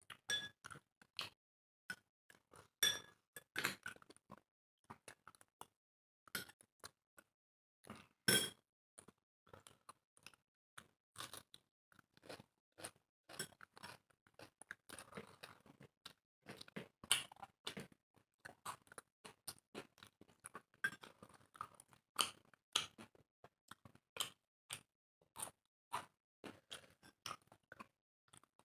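Close-miked eating: irregular wet chewing and crunching of food, a few louder crunches early on standing out, with the odd light clink of cutlery on a plate.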